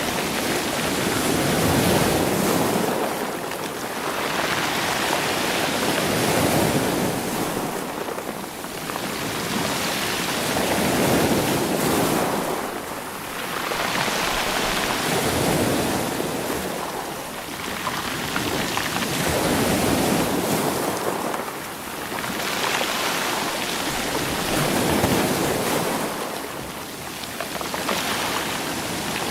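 Sea waves surging over rocks and rolling stones, swelling and draining back in slow surges about every four to five seconds.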